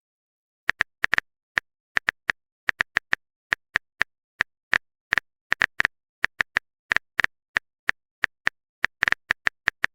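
Keyboard typing sound effect: a quick, irregular run of short clicks, about four a second, with silence between them.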